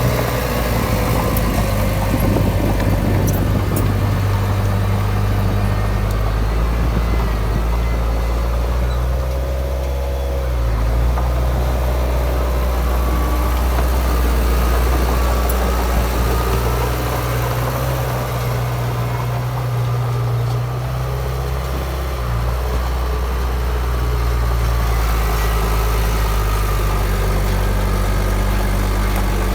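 Bulldozer's heavy diesel engine running continuously, its deep note strengthening and easing a few times as the load changes.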